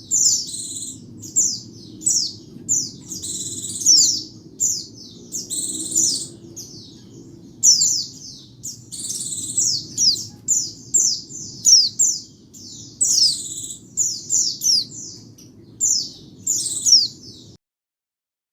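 A white-eye (pleci) singing a fast, busy run of high-pitched chirps and twittering phrases over a faint low rumble. About a second before the end the sound cuts off abruptly.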